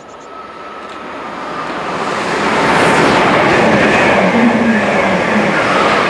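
Multiple-unit passenger train approaching along the platform and passing close by at speed: its wheel and rail noise grows steadily over the first two to three seconds, then stays loud as the carriages go past.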